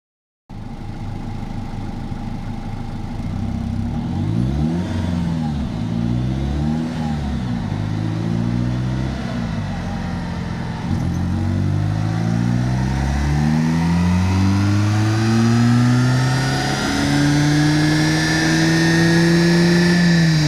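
Remapped Peugeot 206 2.0 HDI turbodiesel engine, first blipped up and down a few times, then pulling hard again and again, its pitch rising and dropping back between pulls. A long final pull has a rising turbo whistle, and the engine backs off near the end.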